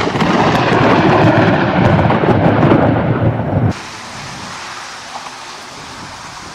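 Loud, rolling thunder from a lightning strike. It cuts off abruptly a little over halfway through and gives way to a much quieter, steady hiss.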